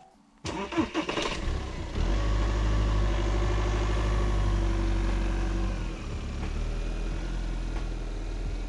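Car engine starting: a few sharp sounds near the beginning, then the engine catches about two seconds in and runs steadily, dropping to a lower, quieter run about six seconds in.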